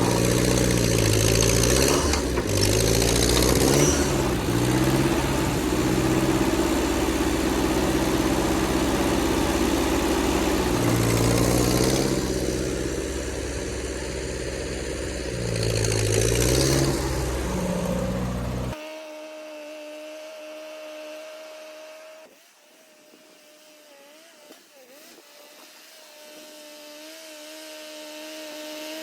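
Ford half-track tractor's engine running and revving up and down several times. About two-thirds of the way through, the sound cuts off suddenly to a faint steady hum.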